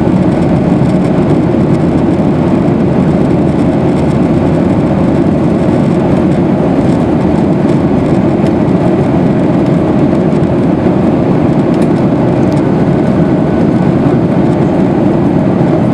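Steady, loud cabin roar of a Boeing 737-800 climbing out after takeoff: the CFM56 turbofans' drone mixed with airflow noise around the fuselage.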